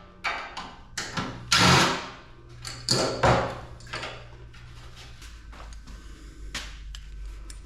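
Clanks, knocks and scrapes of metal parts being handled while a PTAC air-conditioner unit is taken apart, loudest in the first three seconds or so, then quieter.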